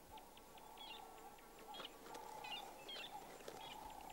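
Faint bush ambience: a handful of short bird chirps scattered through it, over a steady low hum and faint regular ticking.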